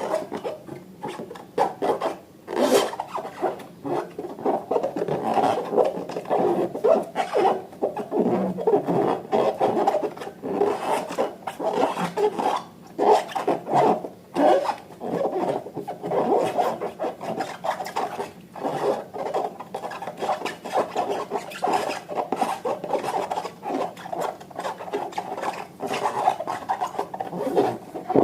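Slime being worked by hand: a continuous sticky rubbing and crackling made of many small irregular clicks and squelches.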